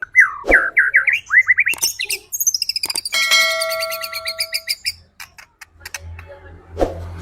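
White-rumped shama (murai batu) singing: a quick run of rising whistled notes, then a fast rattling trill of several stacked tones that stops about five seconds in. A low hum and a short thud follow near the end.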